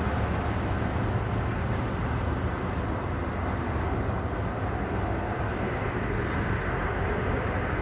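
Suburban diesel train running, a steady low drone without breaks or changes.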